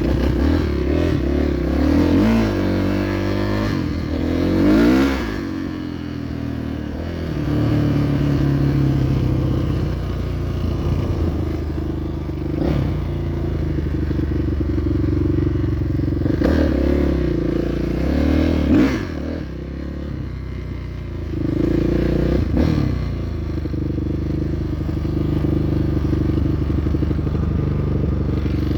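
Kawasaki motorcycle engine running as it is ridden, its pitch rising and falling again and again as the rider opens and closes the throttle.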